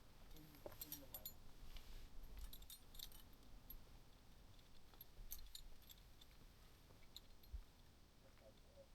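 Faint, scattered metallic clinks and jingles of climbing hardware such as carabiners knocking together, in small clusters about a second in, around three seconds and around five and a half seconds, over a low wind-like rumble.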